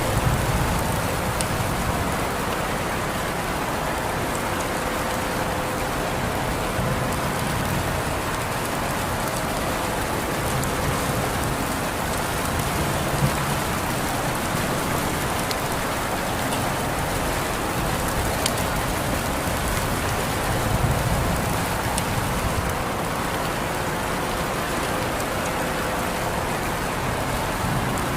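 Steady rain falling, an even hiss of drops on surfaces, with a few sharper drop ticks here and there.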